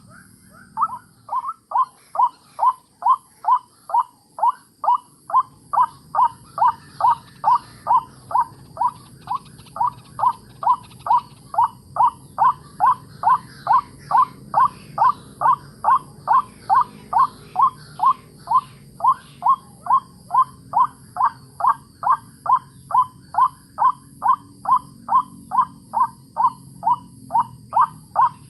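White-breasted waterhen call: a single short note repeated steadily and monotonously, about twice a second, with a brief pause at the start.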